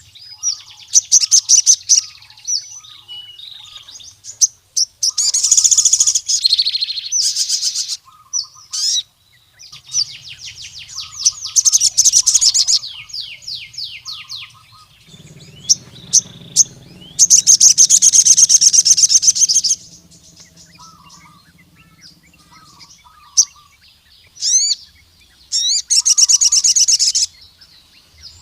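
Male sogon sunbird singing in bursts of rapid high trills, each a second or three long, with short pauses between them: the loud song a male uses to call out rival males.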